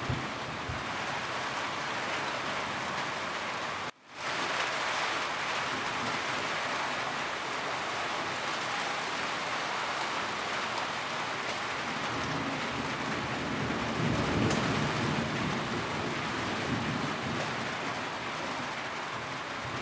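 Steady rain falling on a roof, an even hiss of drops. It cuts out for a moment about four seconds in, and a low rumble swells up about two thirds of the way through.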